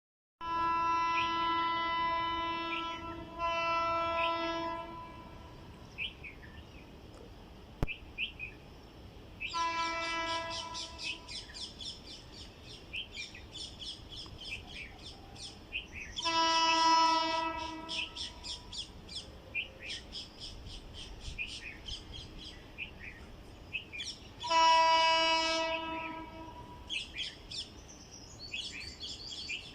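WAP-5 electric locomotive horn sounding five steady blasts: a long one and a short one close together at the start, then three more spaced several seconds apart. Birds chirp rapidly between the blasts.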